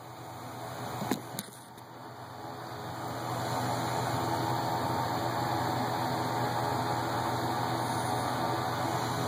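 A steady motor-driven hum with a low drone, growing louder over the first few seconds and then holding level, with two small clicks about a second in.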